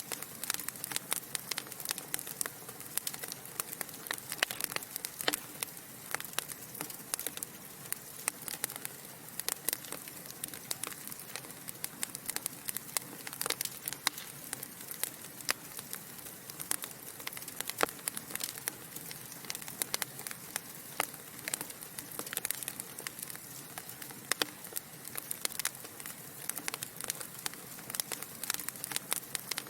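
Wood fire of burning logs crackling in a fireplace: a steady soft hiss with many irregular sharp pops and snaps.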